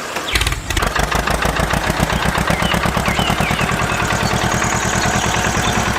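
A small engine starts and runs with a rapid, even chugging.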